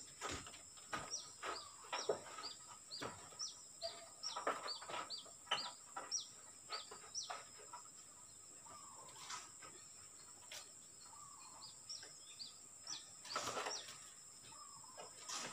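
Small birds chirping over and over in short falling calls, about two a second for the first seven seconds, then again a little before the end, over a steady high-pitched drone. Scattered sharp clinks and scrapes of a mason's trowel working mortar and brick come in between.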